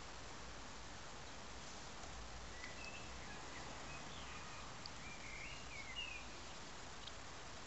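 Faint outdoor ambience: a steady background hiss with a few small bird chirps, the clearest about five to six seconds in.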